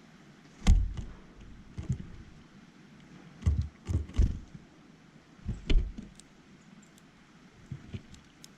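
Irregular knocks and bumps on a bird feeder close to the microphone, about half a dozen, the loudest about a second in.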